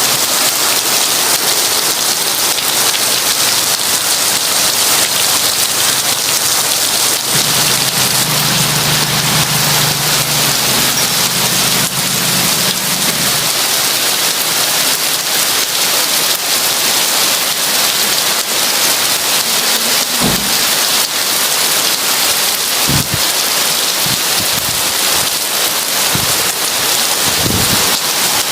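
Heavy rain falling steadily in a loud, even hiss, with a low roll of thunder about eight to thirteen seconds in and a few short low thuds later on.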